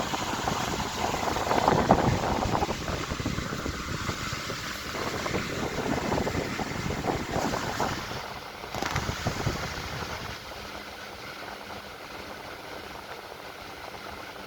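Restored antique Century S3-16 16-inch electric fan running on its fourth speed, its air stream rushing and buffeting the microphone. The gusty rush is strongest for the first ten seconds or so, then settles to a quieter, steady hiss with a faint hum.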